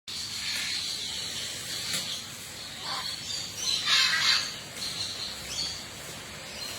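Birds chirping and calling over a steady background hiss, with a louder, longer call about four seconds in.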